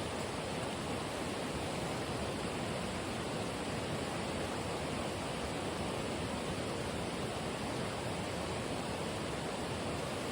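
Steady, even rushing noise of outdoor ambience, with no distinct sounds standing out from it.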